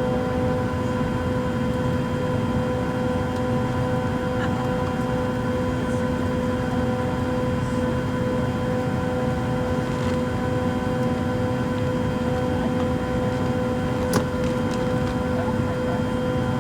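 Airliner cabin noise: a steady jet engine drone with several steady hum tones. A single sharp click sounds about fourteen seconds in.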